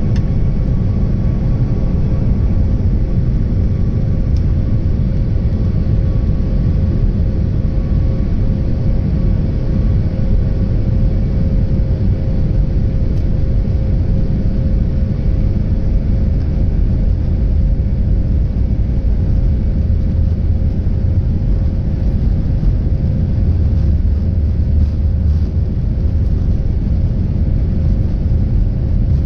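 Boeing 737 jet engines running, a steady loud rumble with a constant hum that holds level throughout.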